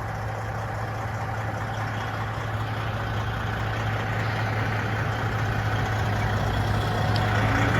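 Semi truck's diesel engine running steadily at low revs, a deep hum that grows slightly louder toward the end.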